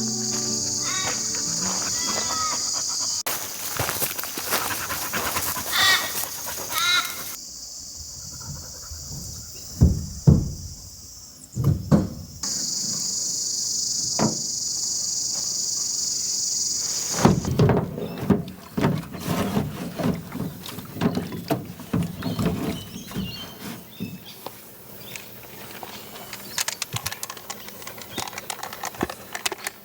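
Insects droning in a steady high band that cuts in and out several times, with scattered knocks and clatter of handling between.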